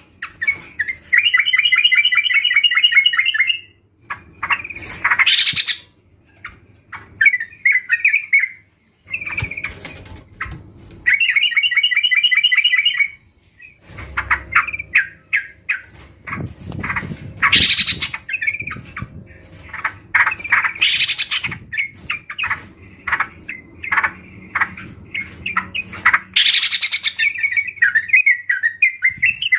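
A group of yellow-vented bulbuls calling together: bubbly chattering phrases and short trills, broken by sharp rising calls and brief gaps.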